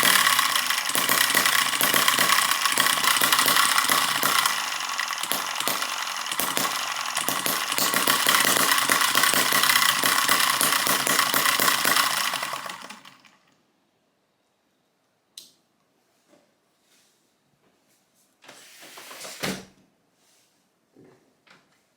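Miniature single-cylinder four-stroke gasoline model engine running fast and steady, then dying away and stopping about thirteen seconds in. After that only a few faint clicks and a brief rustle.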